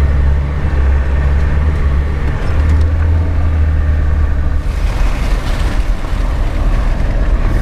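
Land Rover Defender engine running with a deep, steady drone while driving along a flooded track. A burst of hiss comes in about five seconds in and fades after a second or so.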